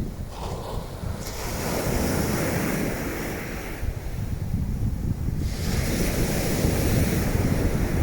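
Waves washing onto the beach, with strong wind buffeting the microphone in a constant low rumble. The hiss of the surf swells twice, once about a second in and again in the second half.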